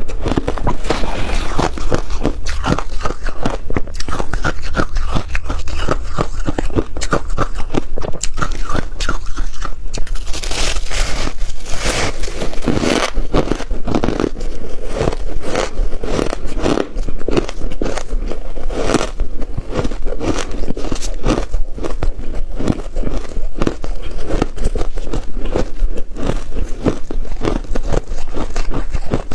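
Close-up crunching and chewing of freezer frost: many quick, sharp crackling bites and chews one after another.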